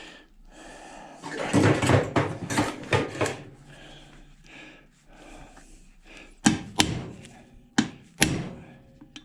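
Hammer striking a steel pin punch against a washing machine motor: four sharp metallic blows in the second half, two close pairs, after a few seconds of clattering as the parts are handled and set up.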